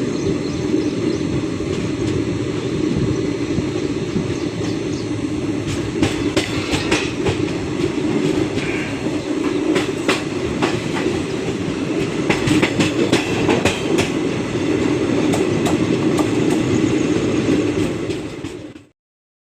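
Passenger train running along the track: a steady rumble with irregular clicks and knocks of the wheels over the rail joints. It cuts off abruptly just before the end.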